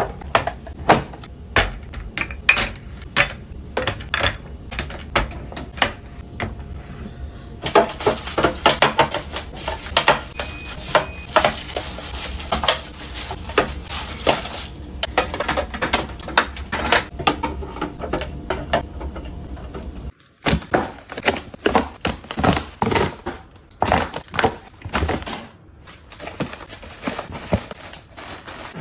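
Kitchen handling sounds: dishes, containers and utensils knocking and clinking in quick, irregular taps. There is a stretch of hiss from about 8 to 15 seconds in, and the sound cuts abruptly about 20 seconds in.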